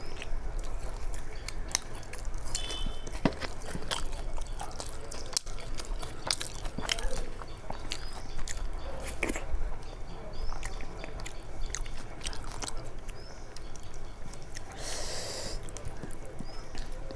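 Close-miked chewing and mouth noises of a person eating khichdi by hand: a string of smacks and clicks as she chews and bites, with a brief rustling scrape near the end.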